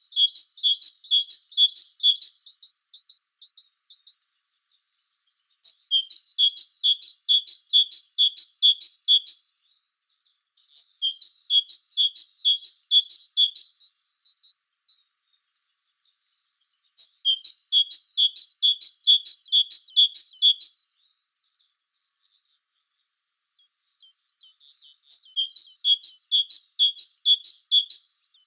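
A songbird singing: five phrases of quickly repeated high notes alternating between two pitches, each phrase lasting three to four seconds, with pauses of a few seconds between them.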